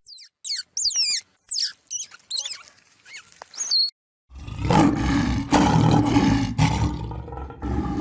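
Animal calls: a quick run of high, thin squeaky calls that mostly sweep down in pitch, then from about four seconds in a loud, rough, drawn-out growl lasting several seconds.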